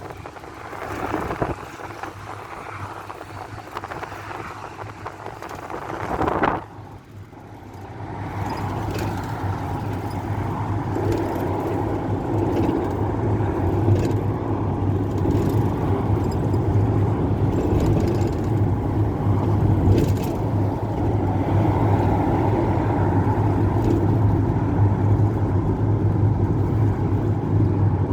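Cabin noise of an old Ford route minibus: engine and road noise, quieter at first with a short loud sound about six seconds in, then building as the minibus picks up speed and settling into a steady low drone.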